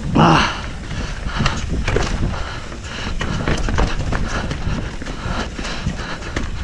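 Mountain bike riding over a rough dirt trail: tyres on stones and dirt with irregular rattles and knocks from the bike, over a low rumble of wind on the microphone. A short loud burst comes right at the start.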